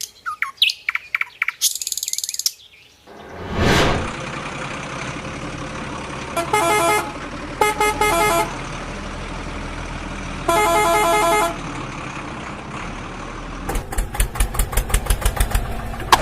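A vehicle horn honks three times, each honk a held note of about a second, over a steady engine-like hum. Near the end a fast rattling pulse sets in.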